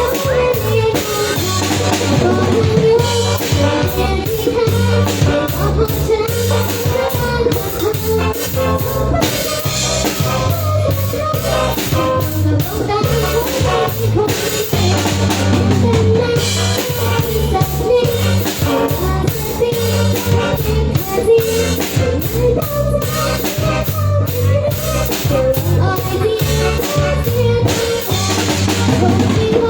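A live band playing a song, with a drum kit keeping a steady beat under a bass line and a melody.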